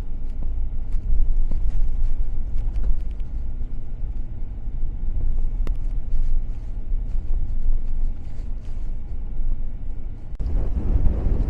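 Car driving, with a steady low road and engine rumble and a few light ticks and rattles. Near the end a louder rush of wind noise takes over.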